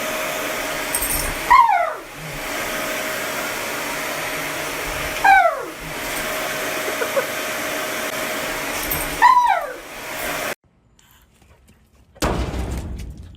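A blower runs steadily while a dog gives three calls that slide down in pitch, about four seconds apart. The blower cuts off suddenly near the end, followed by a short rush of noise.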